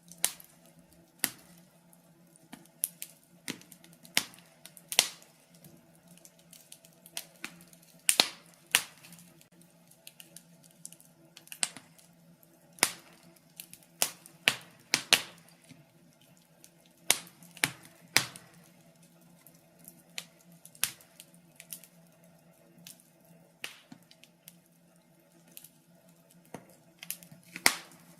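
Wood fire in a fireplace crackling: irregular sharp snaps and pops, sometimes several a second, over a faint steady hum.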